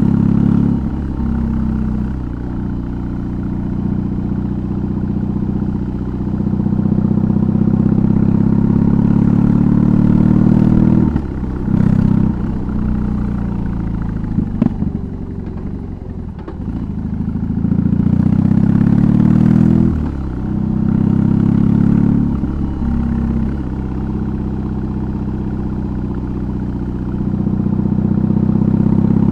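BMW R18's big boxer twin running through a custom exhaust under way. Its note rises and falls with the throttle and breaks off briefly at several gear changes, around a second in, near 11–12 seconds, near 20 seconds and again near 22 seconds.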